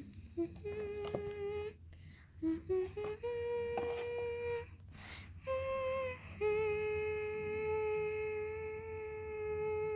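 A voice humming a short tune. It steps up through quick rising notes into long held notes, ending on one note held steadily for about three and a half seconds.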